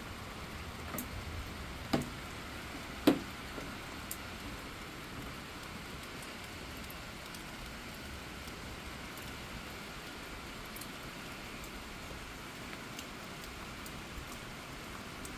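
Steady rain falling on a wet road and lawn, an even hiss. Two sharp taps stand out about two and three seconds in.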